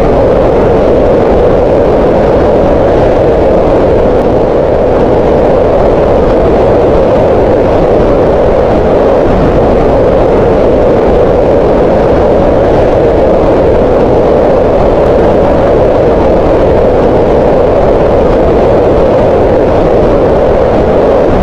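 Green noise: a steady, unchanging hiss with most of its weight in the middles around 500 Hz, softer in the lows and highs.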